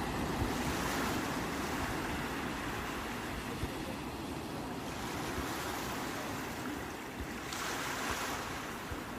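Sea waves breaking and washing ashore: three surges of hiss rise and fall over a steady low rumble of surf.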